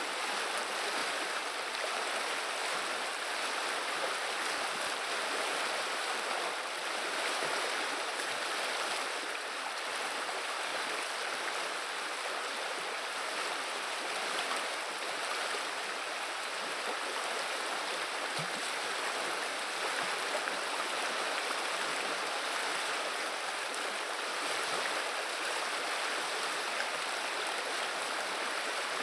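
The Viliya river's flowing water: a steady, even rushing murmur.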